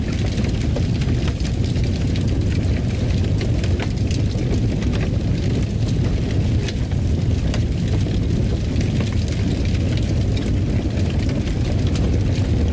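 Fireplace fire crackling: many small sharp pops and snaps scattered over a steady low rumble.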